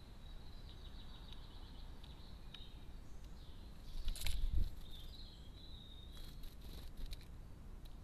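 Garden birds calling and trilling in the background, high and thin, over steady outdoor ambience, with scattered light clicks and one louder knock about four seconds in as a common blackbird pecks seed from a feeding tray.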